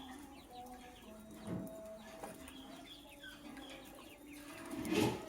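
Lovebirds chirping in short, high calls, with chickens clucking in the background and a louder call near the end.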